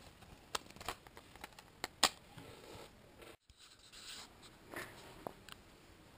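Scattered clicks, taps and short rustles of an item and its packaging being handled during unboxing, the sharpest click about two seconds in. The sound drops out completely for a moment a little past halfway, where the recording cuts.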